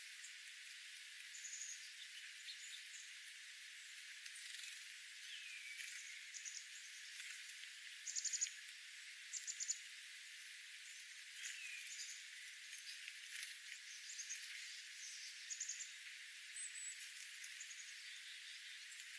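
Wild birds calling: scattered short, high chirps and quick trills, the loudest two brief trills about eight and ten seconds in, with a couple of lower falling notes, over a steady hiss.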